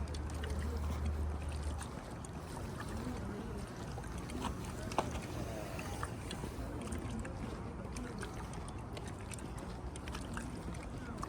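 Outdoor walking ambience: a low rumble that stops about two seconds in, faint voices in the distance, and scattered light ticks.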